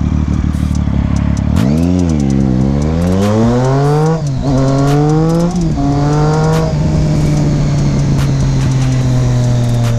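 Vehicle engine accelerating through the gears: its pitch climbs, drops sharply at two gear changes about four and five and a half seconds in, then settles to a steady cruise.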